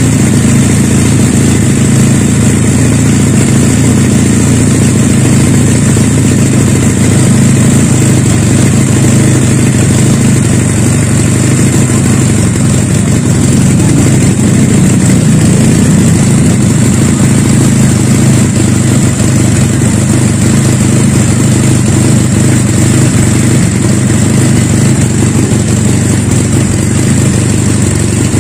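Two-cylinder engine of a custom Honda Supra motorcycle running steadily at idle, its pitch holding nearly constant.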